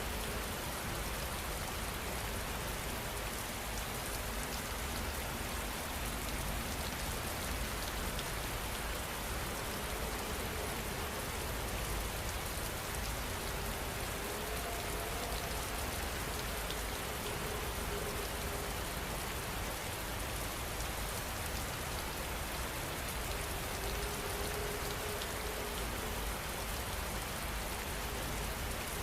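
Heavy rain falling steadily, an even, dense hiss of drops on surfaces with no let-up.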